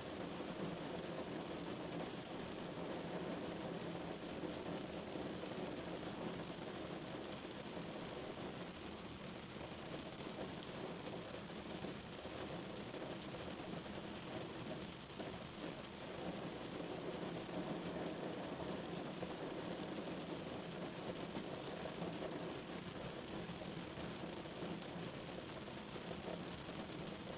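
Rain falling steadily on a car, an even wash of drops with no breaks.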